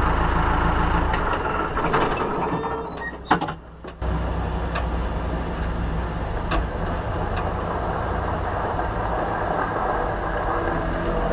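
Truck engine running steadily, heard from inside the cab. It drops away for a moment a few seconds in, with a sharp click, then comes back steady with a few scattered clicks.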